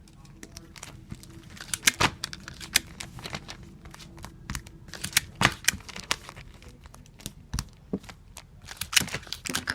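Clear tape pulled off a tape dispenser and torn on its cutter, with crinkling as the comic books are handled and taped. The sharp snaps and rustles come irregularly and bunch up about two seconds in, around five seconds in, and near the end.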